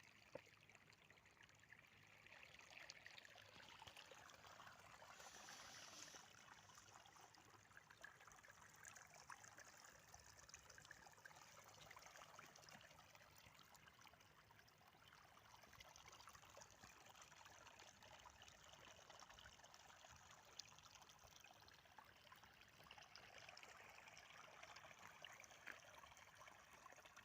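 Faint, steady trickle and burble of a small stream flowing.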